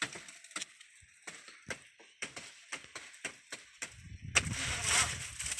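A series of sharp knocks, roughly two or three a second, then a steady rushing noise from about four seconds in.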